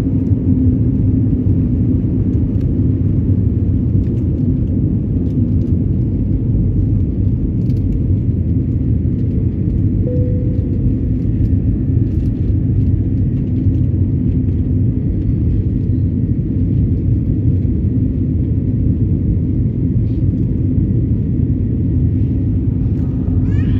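Steady low rumble of a jet airliner's engines and airflow heard inside the passenger cabin in flight.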